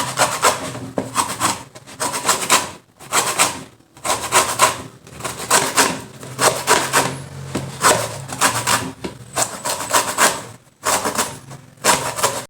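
Lemon peel being grated off on a hand grater: quick back-and-forth scraping strokes in runs, broken by a few short pauses as the lemon is repositioned. Only the yellow zest is being taken, not the white pith.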